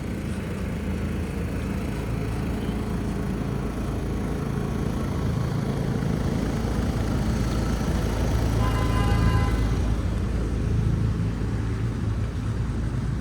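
City street traffic: a steady low rumble of passing vehicles that builds slowly, with a brief pitched tone, like a horn, about nine seconds in.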